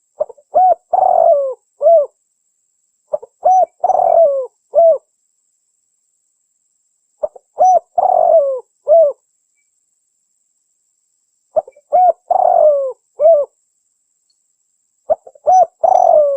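Spotted dove cooing, from a lure-call recording. A phrase of two or three short coos followed by a longer falling coo repeats about every four seconds, five times.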